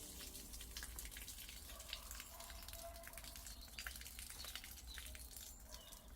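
Faint rain dripping: scattered drops ticking irregularly onto surfaces.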